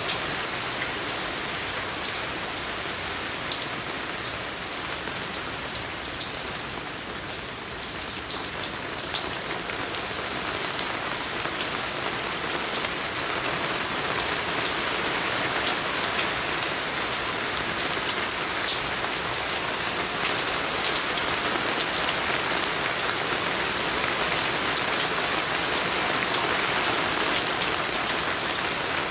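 Steady rain falling on a lake and surrounding trees, a dense even hiss with scattered ticks of single drops close by. It grows a little heavier from about halfway through.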